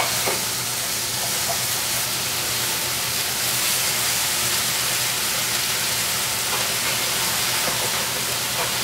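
Chicken pieces sizzling steadily in a hot oiled skillet while they are cut up in the pan, with a few faint clicks of the knife and fork against the pan.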